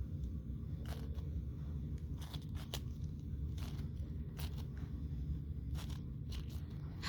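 5x5 Rubik's cube being turned by hand: irregular plastic clicks and scrapes of the layers turning, over a steady low hum.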